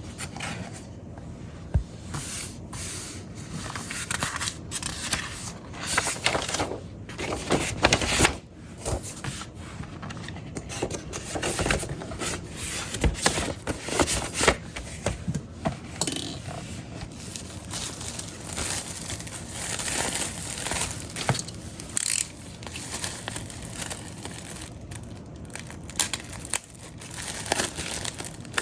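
Hands handling a vinyl record and its sleeves and packaging: an irregular run of paper and plastic rustling, crinkling and scraping, with scattered sharper clicks and taps.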